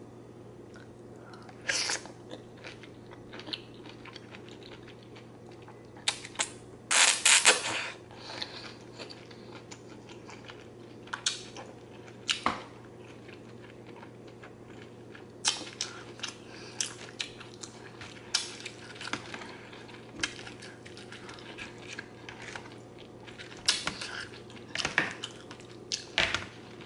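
Close-up eating sounds: chewing and wet mouth sounds on shrimp Alfredo with zucchini noodles, with scattered clicks and scrapes of a metal fork in a plastic bowl. A louder cluster of clicks comes about seven seconds in.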